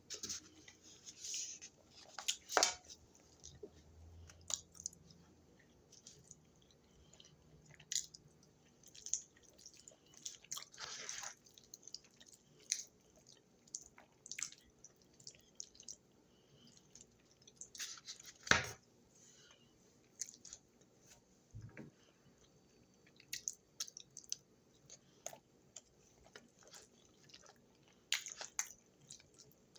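A person chewing food close to the microphone, with irregular short mouth clicks throughout and one sharper click about eighteen seconds in.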